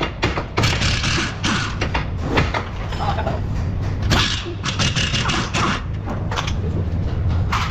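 Irregular sharp knocks and clicks of hand tools and metal parts being worked on a car, over a steady low hum.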